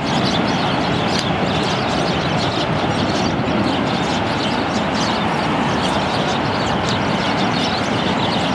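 Boeing 757 jet engines after landing: a steady, unbroken rush of noise at an even level, with scattered faint high ticks over it.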